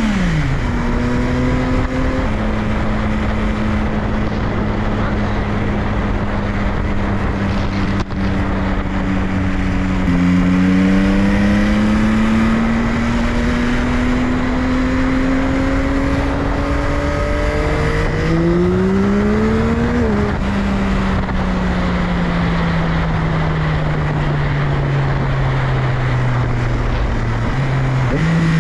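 2022 Yamaha XSR900's CP3 inline-three engine on the road with wind noise. The engine note drops in sudden steps about two and ten seconds in, then climbs steadily under acceleration to about twenty seconds. After that it falls slowly as the throttle is rolled off, and jumps up again shortly before the end.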